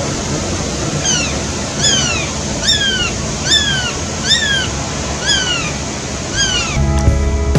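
Guira cuckoo giving a run of repeated calls like a crying kitten, each call rising then falling in pitch, over a steady background hiss. Music comes in near the end.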